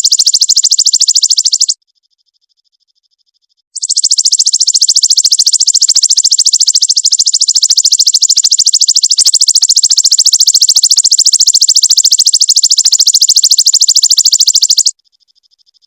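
Prinia (perenjak) song: a loud, very fast buzzing trill of rapid high notes. It breaks off about two seconds in, leaving only a faint trill, picks up again about two seconds later, and stops near the end, where a faint softer trill remains.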